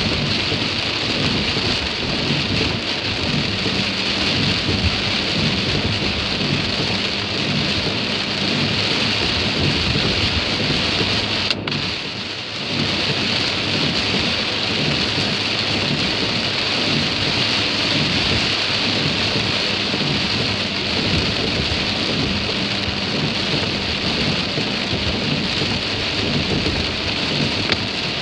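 Steady heavy rain noise heard from inside a moving car: rain on the body and tyre hiss on a wet road, with a faint engine hum beneath. It dips briefly about twelve seconds in.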